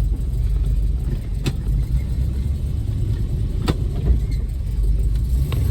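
1972 Plymouth Road Runner's 383 V8 running under way, a steady heavy low rumble, with a couple of sharp clicks.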